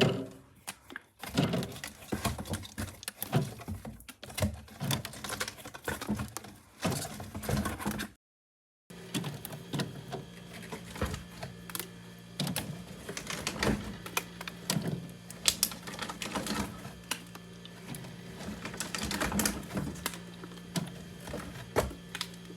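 Items being handled and set into a mini fridge: a continuous run of clicks, taps and knocks from packaging and containers. There is a brief dead-silent gap about eight seconds in, and after it a steady low hum runs underneath the handling.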